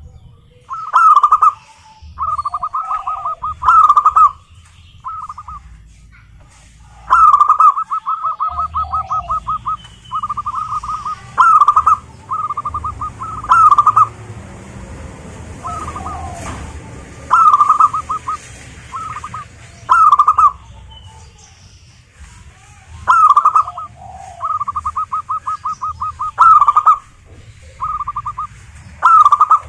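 Zebra dove (perkutut) cooing song: repeated phrases of loud, clipped coos running into rapid staccato series of notes, recurring every few seconds.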